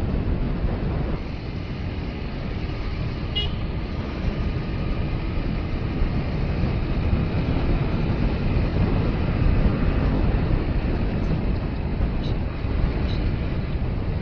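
Motorcycle riding through city traffic: steady engine, road and wind noise, with a short horn beep about three seconds in and fainter beeps near the end.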